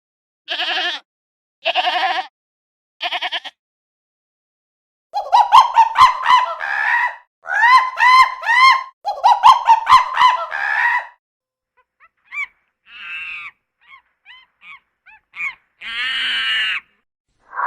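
A goat bleats four short times. Then a monkey calls in loud runs of quick rising cries for about six seconds, followed by scattered shorter calls and one longer call near the end.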